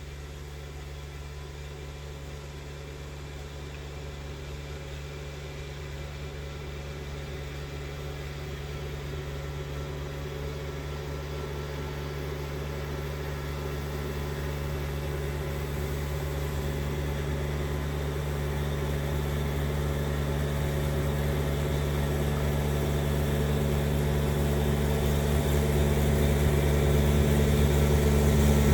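Kubota 2670 compact tractor's engine running at a steady pitch, growing steadily louder throughout.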